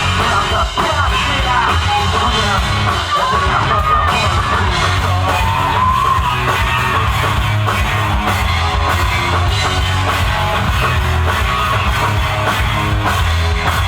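Live rock band playing loudly in a hall: distorted guitars, bass and drums, with a shouted vocal line over them.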